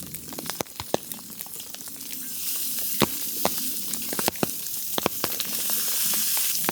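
Sausage, potatoes, asparagus, onion and garlic frying in a cast iron pan: a steady sizzle, dotted with many sharp pops, that grows louder about two seconds in.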